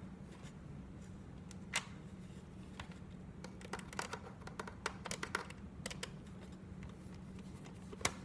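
Scattered small clicks and taps of plastic parts and screws being handled as a Big Mouth Billy Bass singing fish's housing is screwed back together. The clicks come more often in the second half, over a low steady hum.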